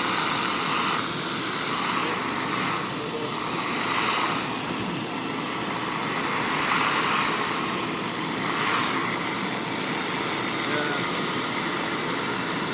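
Hoover SteamVac SpinScrub carpet cleaner running loudly while scrubbing carpet, its motor and spinning brushes making a steady noise that swells and fades about every two seconds.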